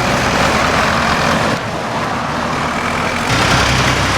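Tractor engines running as the tractors drive along a road. The engine note dips about one and a half seconds in, and a heavier, lower engine sound comes back after about three seconds.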